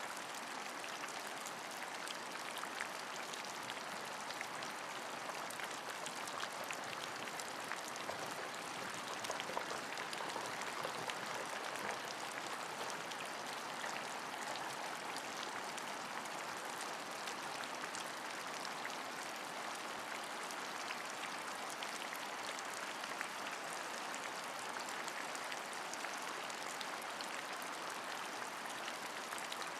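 Steady rain falling, with many separate drops ticking through a continuous hiss.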